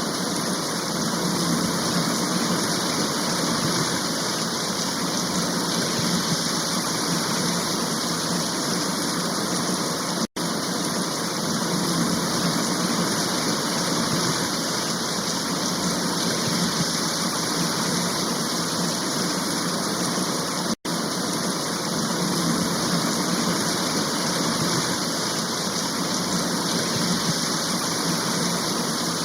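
Steady, heavy rain, a constant even hiss. It is broken twice by a split-second drop-out about ten seconds apart, like the joins in a looped recording.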